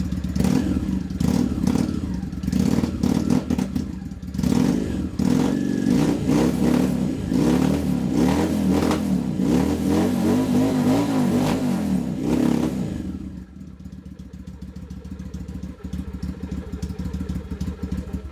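Honda VT600 Shadow V-twin with an aftermarket 2-into-1 exhaust, very deep-sounding, revved repeatedly in short throttle blips, then dropping back to a steady idle about thirteen seconds in.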